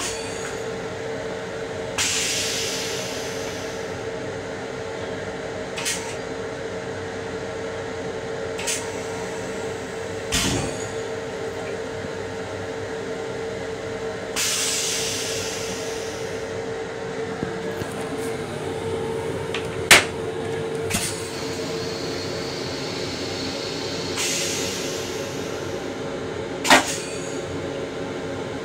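Interior noise of a Long Island Rail Road M7 railcar heard inside its small restroom: a steady hum with a constant tone that stops about two-thirds of the way through. Over it come a few sharp clicks and three brief hissing rushes.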